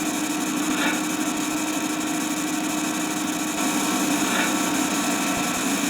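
Steady industrial machinery noise from a steel tube works: a constant hum with a hiss over it and a few faint clanks.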